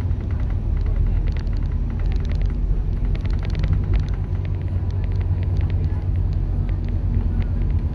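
Scania K230UB bus's diesel engine running under way, a steady low drone, with scattered light clicks and rattles.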